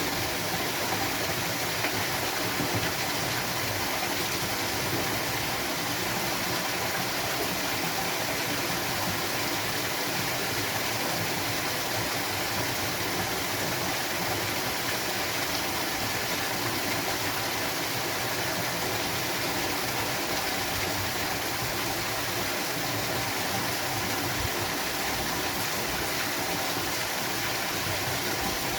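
Water rushing steadily over a waterfall or down a stream, a constant, even hiss.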